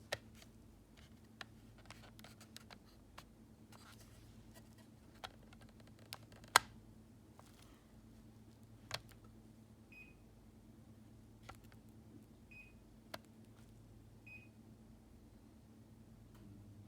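Scattered sharp clicks of remote-control buttons being pressed, and three short high beeps from a Daikin air conditioner acknowledging the remote's signals, over a faint steady hum.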